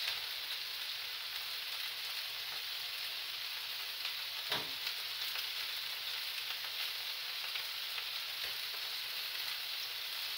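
Sausages and potato-and-onion hash sizzling steadily in frying pans, with one short click about four and a half seconds in.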